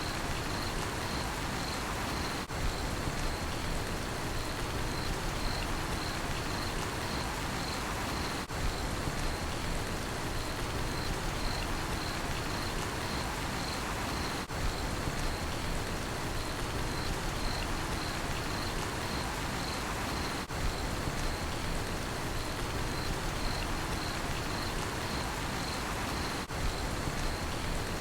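Steady rain falling, with a cricket chirping in a high, even pulse about twice a second. There is a brief dip in the sound about every six seconds.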